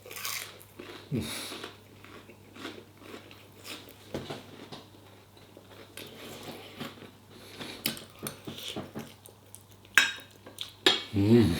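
A person biting and chewing crunchy fried prawn toast dipped in sweet chilli sauce, with irregular crunches and mouth sounds. A sharp knock about ten seconds in.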